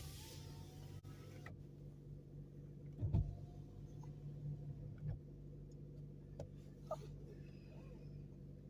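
Steady low hum of a car, heard from inside, with a dull thump about three seconds in and a few light clicks.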